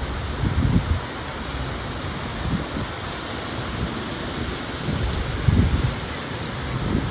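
Heavy rain falling with a steady hiss. Low rumbling bursts come about half a second in and again around five and a half seconds in.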